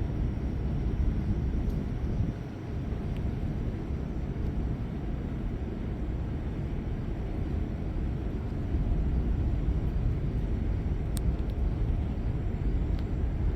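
Low rolling thunder rumbling on without a break during a severe thunderstorm, with a few faint ticks near the end.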